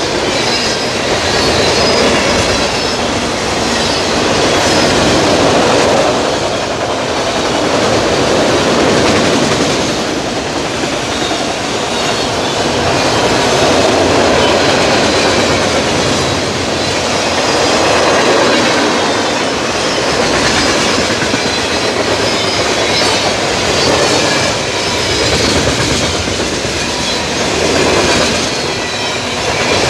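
Freight cars of a passing mixed freight train rolling by close to the track: a steady rumble and clatter of steel wheels on the rail that swells and eases every few seconds as each car goes by.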